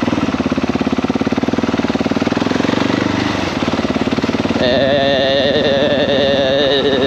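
KTM 690 SMC-R's single-cylinder engine idling with even, rapid firing pulses while stopped. About four and a half seconds in, a wavering, music-like tone comes in over the idle and carries on.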